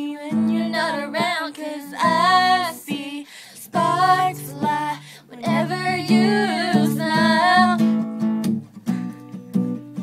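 Female voices singing the last chorus of a pop song over strummed acoustic guitar. The singing stops about eight and a half seconds in, leaving the guitar playing on alone.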